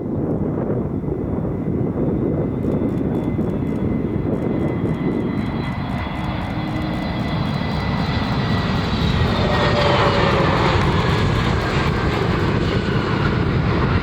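Airbus A321neo jet airliner arriving, its engines a steady roar with a high whine that grows louder and falls in pitch as it passes, dropping more steeply about two-thirds of the way through.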